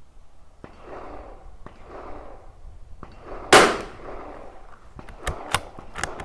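A single shot from a Tikka T1x .22 LR rimfire rifle, a sharp crack about halfway through. Several quick sharp clicks follow near the end.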